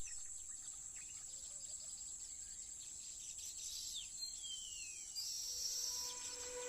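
Field ambience of insects giving a steady high-pitched trill, with a few short falling bird chirps in the middle.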